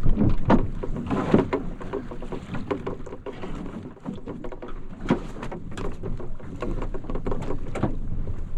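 Sailing canoe under way in strong wind: irregular knocks, slaps and rustles over a low wind rumble.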